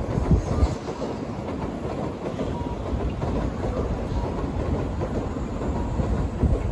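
Shinkansen bullet train pulling out of the station, a steady low rumble of its wheels on the rails.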